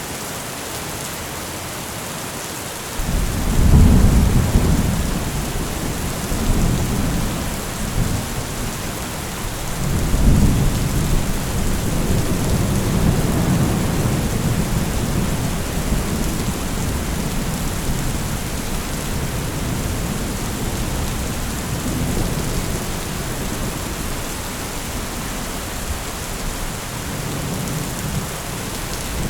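Steady rain with rolling thunder. A long low rumble builds about three seconds in, and another comes around ten seconds in and slowly dies away under the rain.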